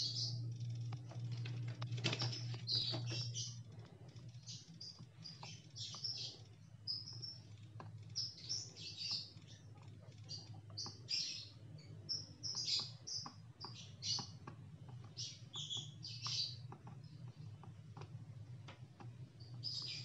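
A bird chirping repeatedly in short high calls, over a steady low hum, with a few faint light clicks.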